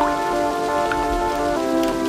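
Steady rain with scattered distinct drops, mixed with soft lofi music of held chords that move to a new chord about a second and a half in.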